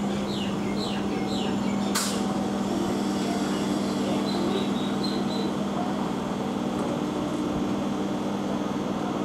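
Electric multiple-unit local train running past and pulling away, giving a steady electrical hum over the rumble of the wheels on the rails, with a single sharp click about two seconds in.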